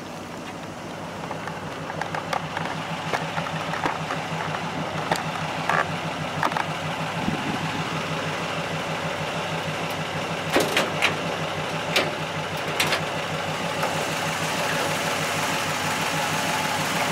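A 1940 Ford's original 239 cubic-inch flathead V8, fitted with two Stromberg carburettors, idling steadily with an even pulse and gradually getting louder. A few sharp clicks and knocks come partway through as the hood is unlatched and raised.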